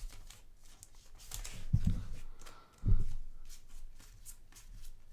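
Hoops basketball trading cards being handled and slid one past another, with light scattered clicks and rustles and a couple of soft knocks, about two and three seconds in.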